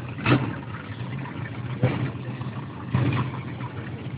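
Vehicle engine running with a steady low hum and three short revs, about a third of a second, two seconds and three seconds in. It has the thin, dull sound of a phone recording.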